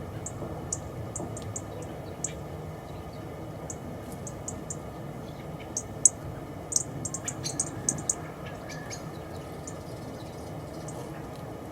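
Small garden birds giving short, high chirps, scattered through and thickest about six to eight seconds in, over a steady low rumble.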